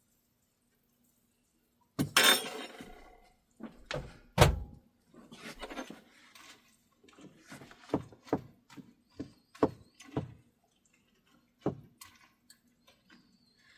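Dishes and utensils being handled while fixing breakfast: a noisy clatter about two seconds in, then a string of separate knocks and thunks.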